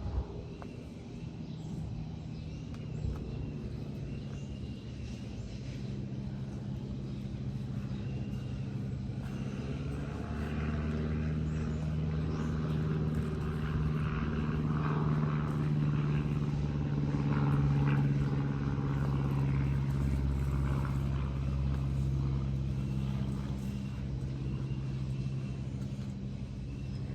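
A motor engine drones steadily, growing louder to a peak about two-thirds of the way through and then fading, like a vehicle or plane passing.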